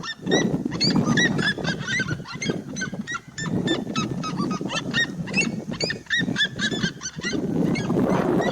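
Red-legged seriema singing: a fast series of loud yelping notes, each a short rise-and-fall, several per second, over lower, harsher sounds that swell and fade.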